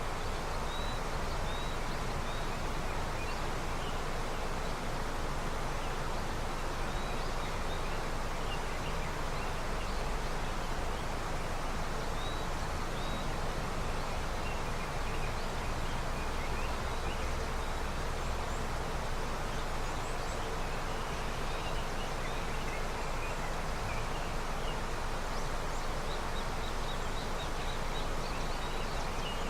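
River flowing steadily with early spring snowmelt: an even rush of water, with a few faint, short high chirps scattered through it.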